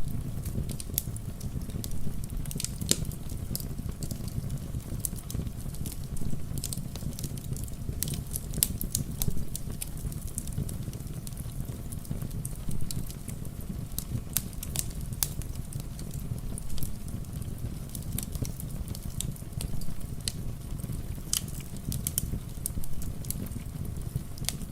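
Wood fire crackling in a fireplace, with frequent irregular sharp pops over a steady low rumble, mixed with rain falling.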